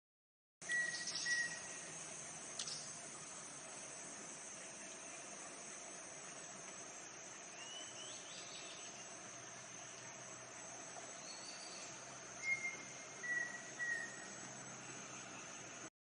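Steady high-pitched insect drone with a bird calling over it in short whistled notes: a couple near the start, a brief rising call in the middle, and a run of three clear whistles about three-quarters of the way through.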